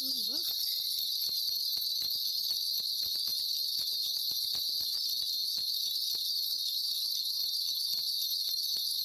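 Shaman's ritual bells (mugu bangul) shaken continuously, a steady high jingling shimmer with many small metallic clicks, as she calls on the spirits for a divination.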